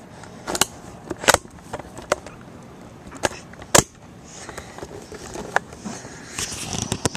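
Handling noise: a series of sharp, irregularly spaced clicks and knocks, with soft rustling between them.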